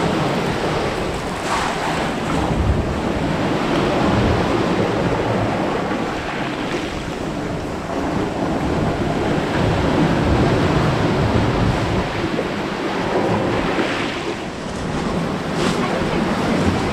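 Ocean surf washing ashore, rising and easing in slow swells, with wind buffeting the microphone.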